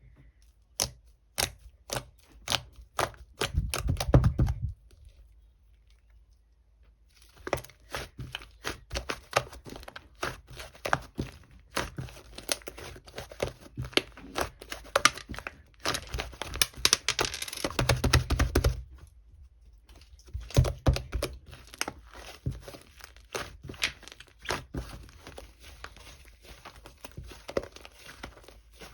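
Slime being squished, stretched and folded by hand, giving a quick run of sticky clicks and small pops. A few dull thumps come in about four seconds in and again near eighteen seconds.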